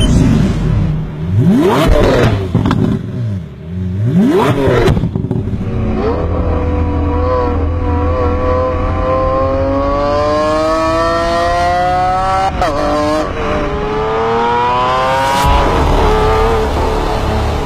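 Lamborghini Aventador V12 through a Fi Exhaust system, revved hard three times in quick blips, then pulling up through a gear with a rising pitch, a quick shift about twelve seconds in, and a second rising pull.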